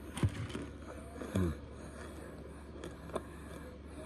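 A mouthful of cornstarch being chewed close to the microphone: a few short crunches and mouth clicks over a steady low hum.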